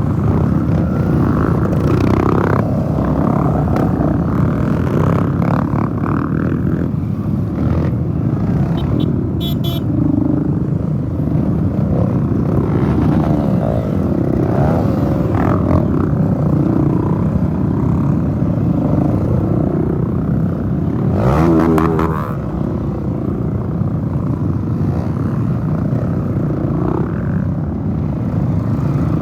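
Off-road trail motorcycles riding past one after another, engines revving up and down as they go by. One bike passes close and loud about twenty-one seconds in.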